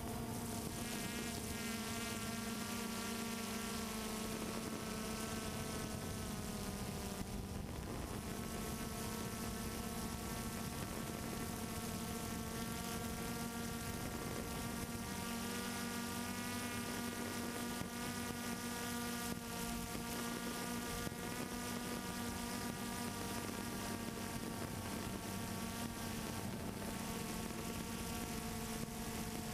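Multirotor drone's motors and propellers buzzing steadily, a high insect-like drone whose pitch wavers slightly now and then.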